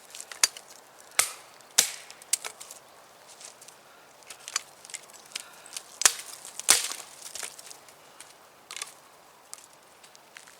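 Heavy chopper knife striking wood in a series of irregular sharp chops and cracks, the hardest blows about a second in, near two seconds, and a pair around six to seven seconds in, with lighter knocks and splintering between.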